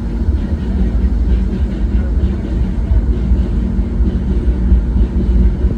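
Disneyland Railroad narrow-gauge steam train running, heard from aboard: a steady low rumble with the rattle of the cars on the track.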